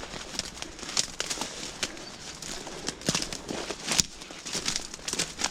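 Footsteps and crackling through undergrowth: irregular snaps and rustles of twigs and dry vegetation underfoot.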